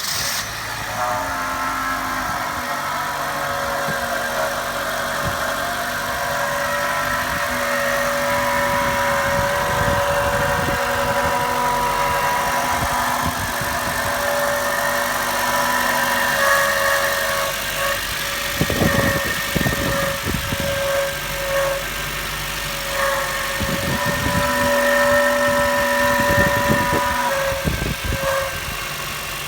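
2007 Honda Fit's 1.5-litre four-cylinder idling just after a cold start in sub-15°F weather, carrying a steady tone over the engine sound. This is the unexplained cold-start noise; a stethoscope could not locate it, and the owner wonders whether it comes from a tight idler bearing, since the belt is not squealing.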